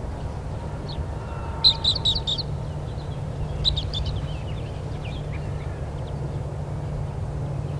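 A small bird chirping: a quick run of about five high notes about two seconds in, and a shorter run near four seconds, over a steady low rumble.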